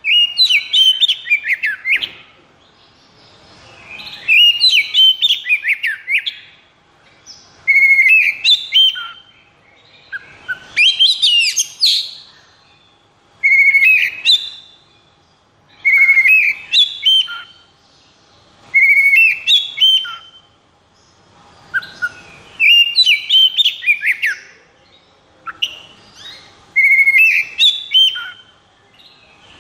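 Oriental magpie-robin (kacer) singing in the fierce 'konslet' style, a sign of a bird in high arousal: short bursts of quick whistled and chattering notes, about one phrase every two seconds with brief pauses between.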